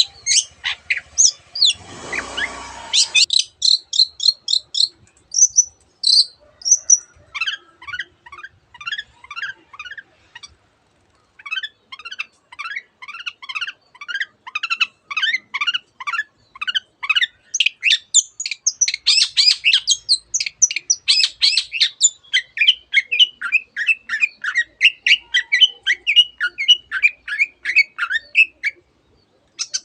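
Long-tailed shrike (cendet) singing a fast, dense song of sharp repeated notes and quick descending chirps, with mimicked phrases of canaries and other birds. There is a brief rustle about two seconds in and a short pause about a third of the way through.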